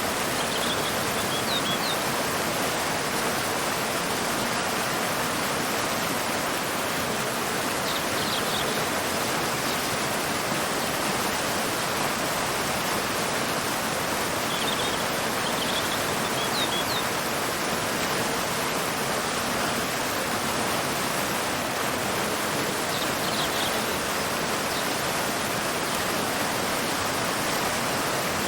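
Waterfall pouring into a river: a steady, even rush of falling water. Over it, short high bird chirps come in brief clusters about four times, every seven or eight seconds.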